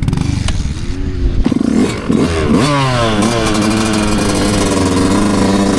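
Dirt bike engine running rough and clattery, then accelerating: the pitch climbs and falls back twice before it runs steady at high revs.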